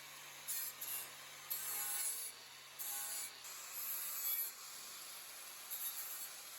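Irregular rasping strokes of metal being abraded along the edge of a thin sheet-steel cutout, about half a dozen short strokes with pauses between them.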